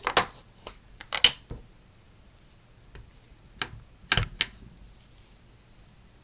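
Scattered sharp clicks and taps of a stamping ink pad and its plastic case being handled on a craft table, loudest about a second in and again about four seconds in.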